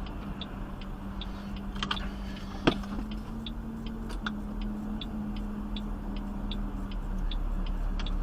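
A car's turn-signal indicator ticking steadily, about two and a half ticks a second, over the steady low hum of the car. One sharper click stands out a little under three seconds in.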